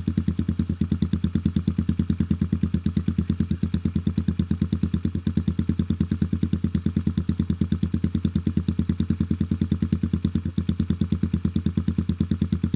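Custom cafe racer motorcycle engine idling steadily, with an even, rapid pulse of about eight beats a second.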